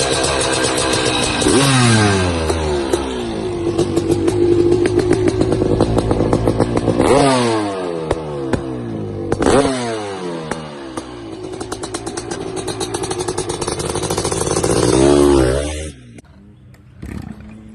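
Honda CR500's single-cylinder two-stroke engine running and being blipped: the revs rise sharply about four times and fall back between blips, then the engine sound drops away suddenly near the end.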